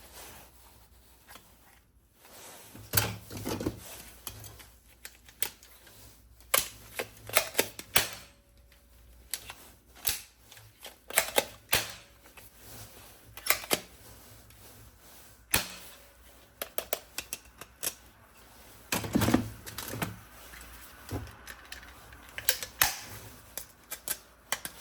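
Irregular clicks, taps and knocks of objects being handled, coming in uneven clusters, with a few louder knocks.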